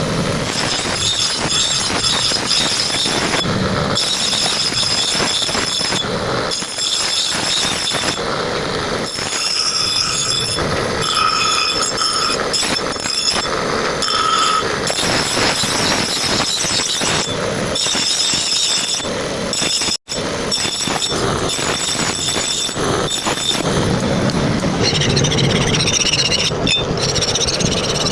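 Steel being ground or abraded, a continuous high squeal over a rough scraping rush, with a brief break about two-thirds of the way through.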